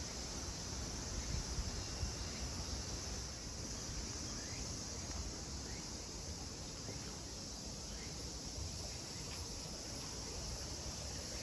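Cicadas droning in a steady chorus, over a low rumble.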